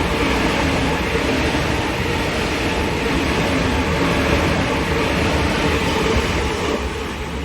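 Sydney Trains electric suburban train running along the platform: a steady loud rumble of wheels on rails with a steady hum, beginning to fade near the end.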